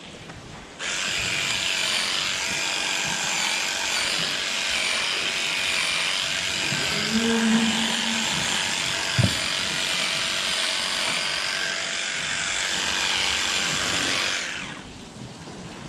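A small electric motor, like a power tool or clippers, switches on about a second in, runs steadily with a high whine, and switches off near the end. A single sharp knock sounds about nine seconds in.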